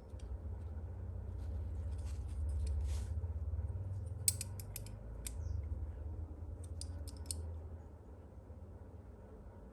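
Small kit parts being handled and worked by hand during assembly: a low handling rumble with a few sharp clicks, most of them around the middle.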